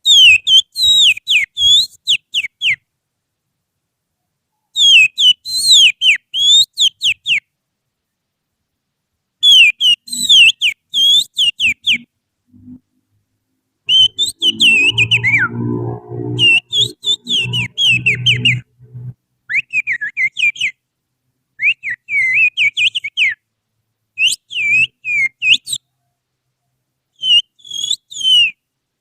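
Finger whistling imitating an oriental magpie-robin's (kacer) song: bursts of quick, sharply gliding high notes a few seconds long, broken by short pauses. A low hum sounds underneath around the middle.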